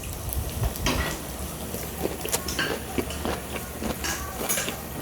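Tableware clatter: scattered light clicks and taps of utensils against dishes.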